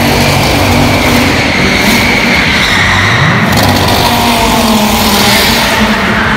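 Car engine revving and accelerating, its pitch climbing about three seconds in and again near the end.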